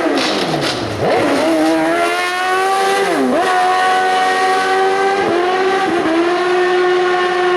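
Racing car's engine at high revs during a hill climb run. The pitch drops at the start and climbs again about a second in, dips sharply once for a quick gear change near the middle, then holds high and steady with two short dips near the end.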